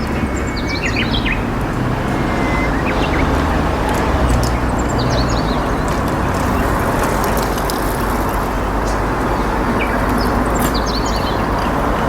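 Small birds giving quick high chirps, in clusters about a second in, around five seconds in and again near the end, over a steady rushing background noise.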